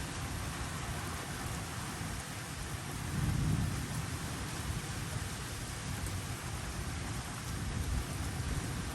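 Steady rainfall during a thunderstorm, with a low rumble of thunder swelling and fading about three seconds in.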